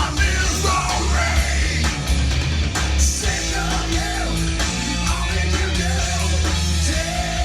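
Loud rock music with electric guitar, drums and shouted singing.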